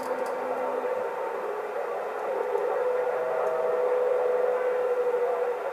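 CB radio receiver hissing with static through its speaker, squelch open while skip is coming in, with a steady whistling tone joining about two seconds in and stopping near the end.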